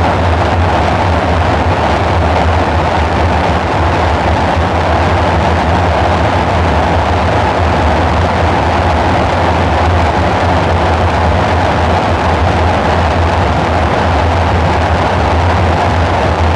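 Dark ambient synthesizer drone: a steady deep hum with a band of hissing noise in the middle range, unchanging and without rhythm.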